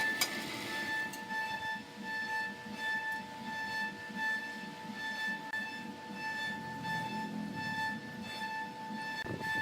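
Wood lathe running with a steady high-pitched whine that swells and fades about twice a second, over a low rhythmic rumble.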